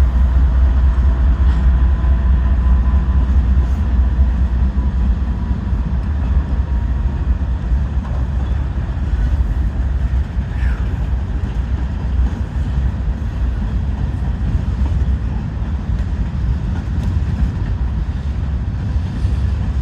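Norfolk Southern diesel locomotive and freight cars of a transfer train rolling past with a steady low rumble, a little louder in the first few seconds and then easing as the cars follow.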